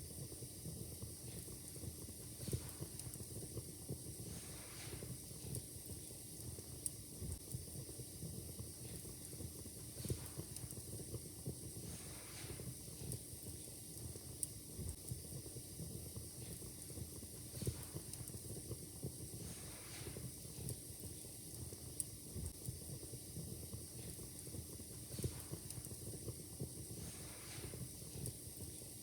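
Wood fire crackling in a fireplace, with scattered sharp pops over a steady low hiss and a soft hiss swelling about every seven seconds.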